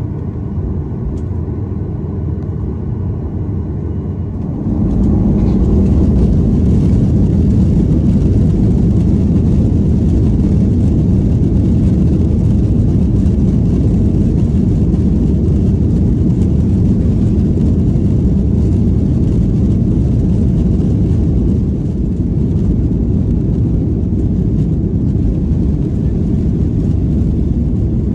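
Boeing 737-800's engines heard from inside the passenger cabin: a steady low rumble with faint engine tones. About five seconds in, the noise jumps louder and brighter as the engines spool up to takeoff thrust, then holds as a loud steady rush through the takeoff roll.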